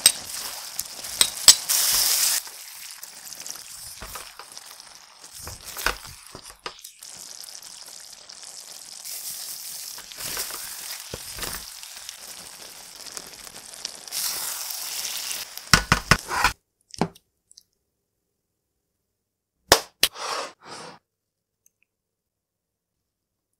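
Chicken karahi sizzling in a karahi as powdered spice goes in and a spatula stirs it, with clicks and clinks of the utensil against the pan. The sizzling cuts off suddenly about two-thirds of the way through, and a few short crackles come near the end.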